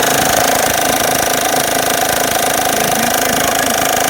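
Honda Pilot V6 engine running with a rapid, steady knocking and tapping. The owner believes it is not a blown engine but needs a timing belt and water pump.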